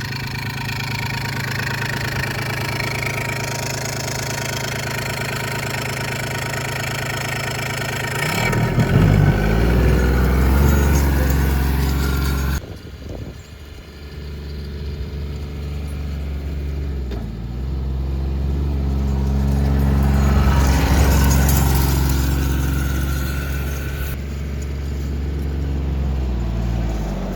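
Tractor engine running. It changes about eight seconds in to a deeper, louder run, breaks off briefly around thirteen seconds, then runs on.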